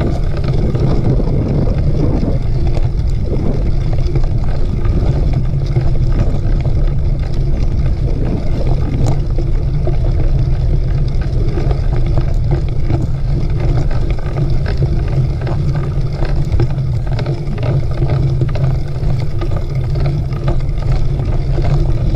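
Mountain bike riding over a dirt trail: a steady rumble and rattle with wind buffeting the microphone.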